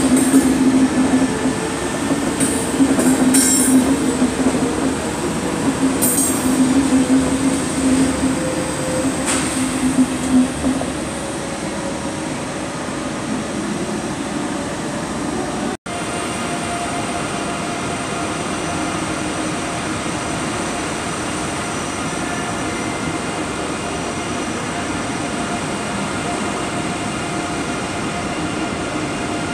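Electric trains moving through a station. For the first ten seconds there is a steady low hum with several short, high wheel squeals. After an abrupt cut, an ICE high-speed train rolls past slowly with a steady rumble and faint whining tones.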